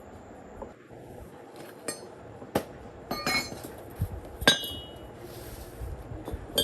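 Metal tools and parts knocking and clinking: about half a dozen irregular sharp strikes, some with a brief metallic ring.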